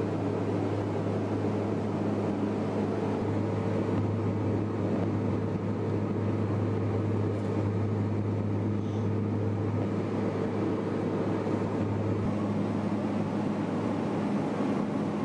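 Steady, unchanging engine drone with a strong low hum and a few steady tones above it.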